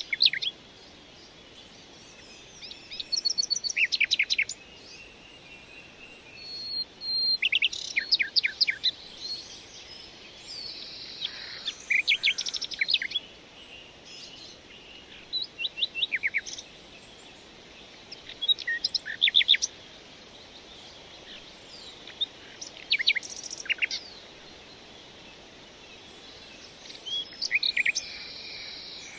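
Birds singing: short bursts of quick, high chirps and trills every few seconds, over a faint steady hiss.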